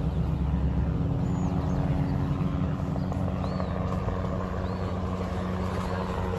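A vehicle running: a steady engine hum with road or wind noise. Faint short high chirps repeat about once a second in the second half.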